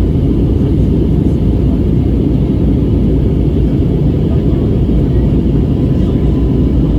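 Steady low rumble of an Airbus A320 airliner's engines and airflow, heard from inside the passenger cabin during the takeoff climb.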